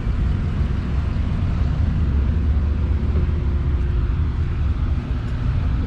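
Steady low rumble of car engines running around a car meet, with a faint steady hum coming in about halfway through.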